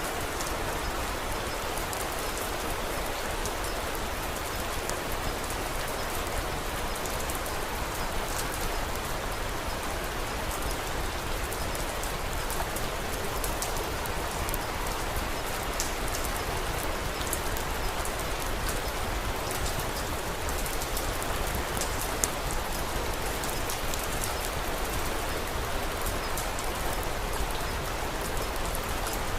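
Steady rain falling, with frequent small sharp crackles of a wood fire scattered through it.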